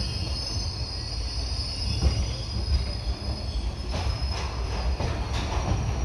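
Passenger train coaches rolling slowly, heard from an open doorway: a steady low rumble with a thin high wheel squeal, and a few sharp clicks of wheels over rail joints in the second half.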